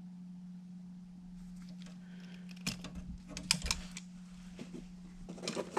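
Sharp, irregular clicks and snips of a hand tool working the end of an electrical wire to strip its insulation, starting about two and a half seconds in, over a steady low hum.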